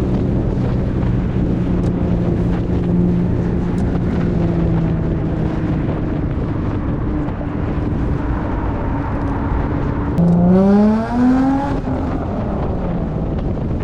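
Infiniti G35's VQ-series V6 engine cruising steadily, its pitch sinking slowly. About ten seconds in it gets louder and rises in pitch under acceleration, breaks briefly at a quick shift, rises again, then settles back to a steady cruise.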